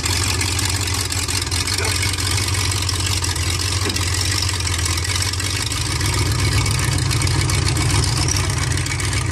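Chevrolet S10 mega truck's engine running steadily under a steady hiss, its low note stepping up and getting a little louder about six seconds in.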